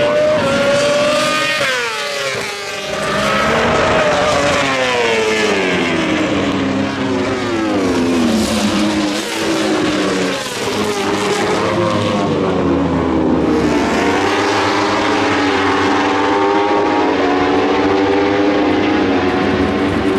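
Several four-cylinder World Superbike racing motorcycles at high revs at once. Their engine pitches repeatedly fall and climb and overlap one another.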